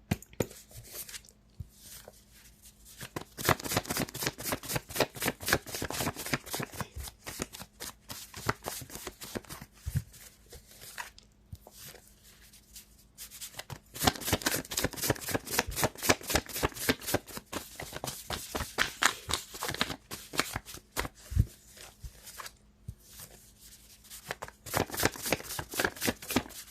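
Tarot cards being shuffled by hand: runs of rapid flicking clicks in several stretches, with short pauses between.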